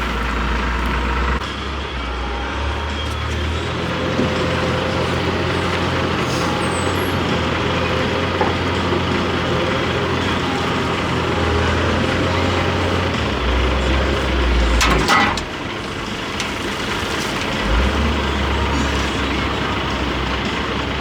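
An engine running steadily with a low drone that shifts a little in level. About fifteen seconds in there is one brief, loud burst of noise, like a short air blast or tool burst.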